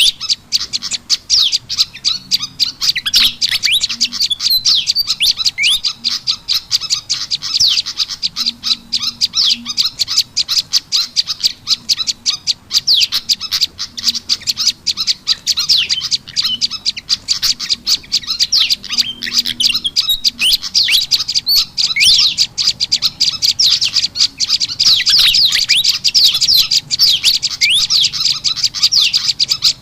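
Bird-lure recording of small songbirds, prenjak lumut mixed with kipasan ribut (fantail), calling without pause: a dense stream of rapid, high chirps and quick falling notes, loud and steady, played to draw wild birds in.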